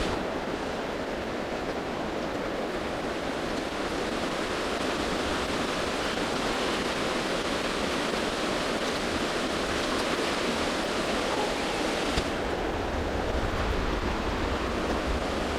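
Steady rush of creek water flowing over rocks, heard up close while wading knee-deep through it, with heavy rain falling. A deeper low rumble joins about twelve seconds in.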